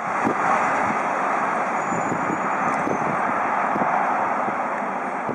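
Freight train of tank wagons rolling away along the line: a steady noise of wheels running on the rails.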